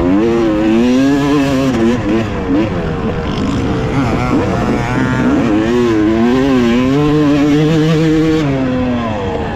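2018 Yamaha YZ250X two-stroke dirt bike engine revving hard as it rides a motocross track, the pitch rising and falling over and over as the throttle is opened and chopped. It holds a steadier high rev for about a second and a half near the end.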